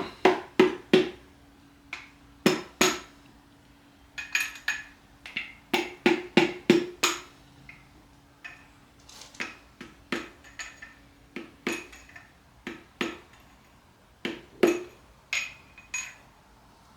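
Steel socket extension being struck against a connecting rod bolt: sharp metal-on-metal taps in quick clusters of three to six, each with a short ringing tone, to knock the rod and its cap loose for removal.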